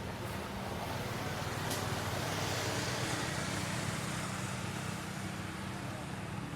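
A steady motor-like hum with a broad rushing noise, swelling a little in the middle, and a single sharp click just under two seconds in.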